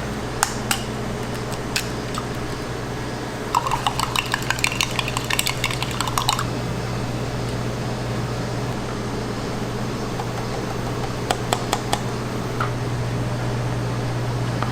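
Small utensils and containers clicking and tapping during food preparation: a few sharp clicks, then a quick run of many taps lasting about three seconds, and a few more clicks later, over a steady low hum of kitchen equipment.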